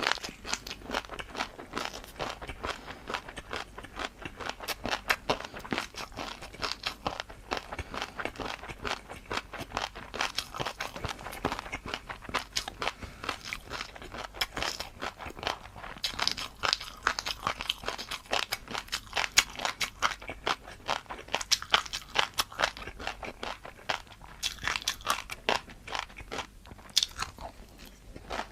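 A person chewing and crunching crisp food, with many sharp, irregular crunches in quick succession throughout.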